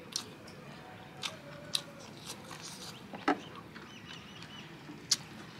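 Close-up mouth sounds of someone eating rice and curry: chewing with a handful of sharp, wet lip-smacking clicks, the loudest a little past the middle.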